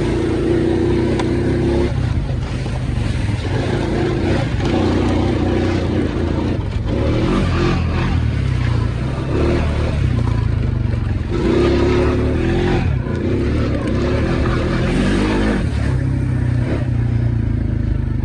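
Small off-road engine, ATV-type, running under load through muddy trails. Its pitch rises and falls every few seconds with the throttle.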